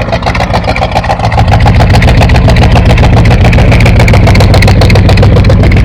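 1977 Ford pickup truck's engine idling steadily through its factory exhaust, running smoothly and evenly with no misses, shortly after a cold start.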